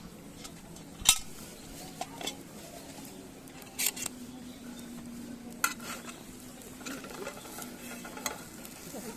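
Metal utensils and cookware clinking and scraping, with a handful of sharp clinks spread out over several seconds.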